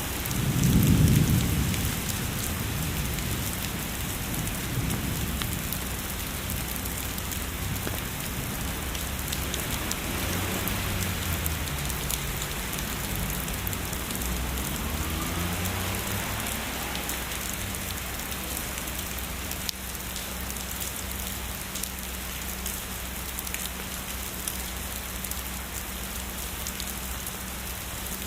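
Steady heavy rainfall hissing on surfaces, with a low thunder rumble that swells to its loudest about a second in and then rolls on more faintly, dying away past the middle.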